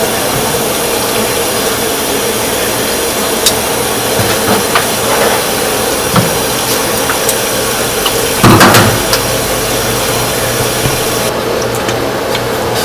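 Steady rushing, water-like noise over a low hum, with scattered light clicks and a short clatter about eight and a half seconds in.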